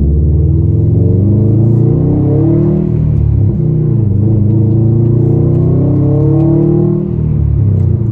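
2020 Subaru WRX STI's turbocharged 2.5-litre flat-four through a Magnaflow Competition catback exhaust, heard from inside the cabin with the windows up, accelerating. The engine note climbs in pitch, drops back about three and a half seconds in, then climbs again and drops back near the end.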